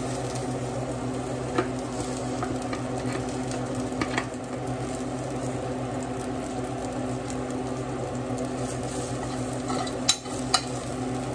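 Garlic and chopped green onions sizzling steadily in oil in a saucepan, with a few sharp clinks of a metal spoon against the pan, the loudest two close together near the end.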